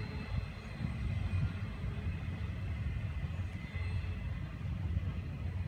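Low, steady rumble of a freight train of empty flatcars rolling away on the rails, fading into the distance.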